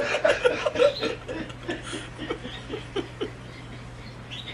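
A person laughing: a burst of laughter in the first second, then a run of short chuckles that die away after about three seconds.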